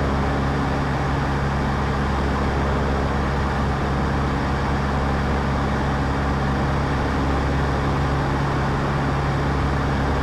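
Cessna 152's four-cylinder Lycoming engine and propeller droning steadily in cruise, heard inside the cockpit as a constant low hum with airflow noise.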